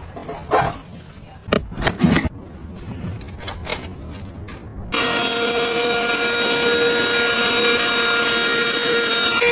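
A few separate clicks and knocks of handling, then about five seconds in a small electric appliance's motor switches on suddenly and runs steadily with a whine.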